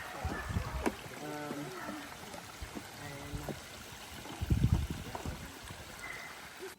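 Steady rushing outdoor noise with two low buffeting rumbles, one about half a second in and a louder one about four and a half seconds in, and faint distant voices.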